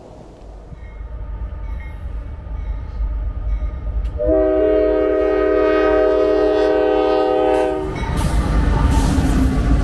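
An approaching diesel freight locomotive on a container train sounds its air horn: one long blast of about three and a half seconds, several notes at once in a chord, over the building rumble of the train. As the horn stops, the rumble of the locomotive and cars passing close grows loud.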